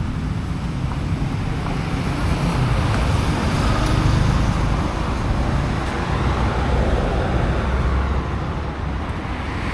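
Street traffic: a steady wash of road noise from passing vehicles, with a low engine rumble underneath.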